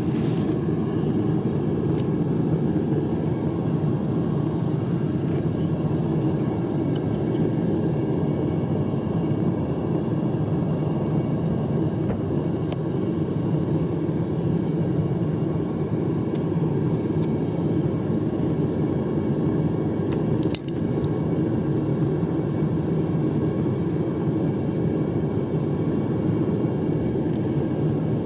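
Devil Forge propane melting furnace running, its burner giving a steady low rumble.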